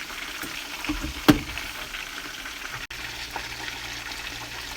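Breaded chicken thighs sizzling steadily in hot oil in a pan, with one sharp knock about a second in.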